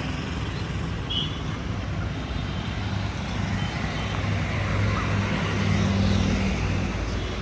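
Vehicle engines running steadily with road traffic noise, a low engine hum that swells slightly past the middle.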